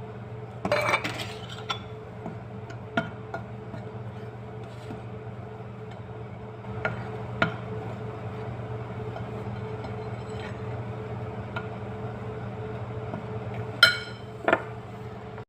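Kitchen dishes and utensils clinking against each other a handful of times, the loudest near the end, over a steady low hum.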